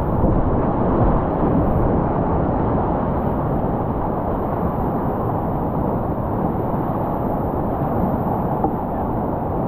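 Whitewater rapids rushing in a steady, muffled roar.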